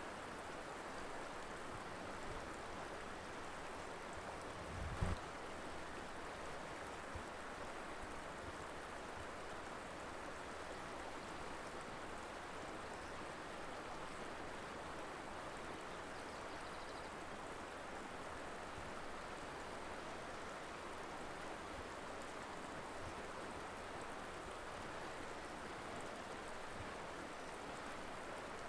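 River water flowing steadily, an even rushing of a mountain river over rocks. A brief low thump sounds about five seconds in.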